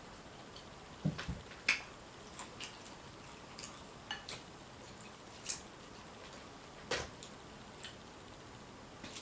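Scattered sharp clicks and snaps of seafood shells being cracked and peeled by hand, with a soft low thump about a second in.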